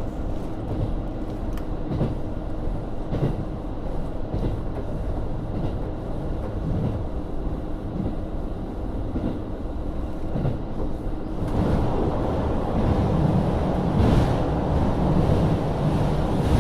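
Onboard running sound of a JR Hokkaido KiHa 40 type 350 diesel railcar with its DMF13HZB diesel engine: a steady rumble, with the wheels clicking now and then over rail joints. About two-thirds of the way through, a louder rushing noise swells in.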